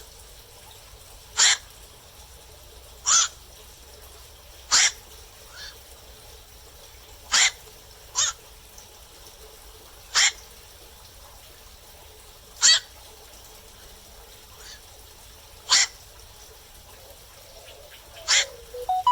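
Black-crowned night heron calling: about nine short single calls, spaced a second to three seconds apart.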